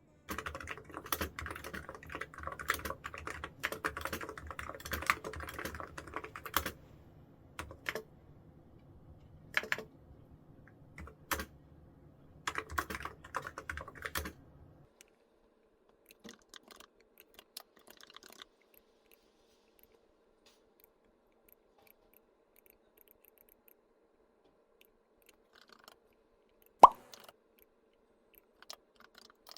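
Typing on a computer keyboard: quick runs of keystrokes for the first several seconds, then shorter bursts and scattered single keys, with one sharp, louder click near the end.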